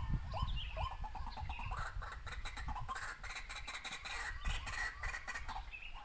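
A bird giving short clucking calls, about two to three a second, which stop after the first second and a half. A run of light clicks and rustling follows.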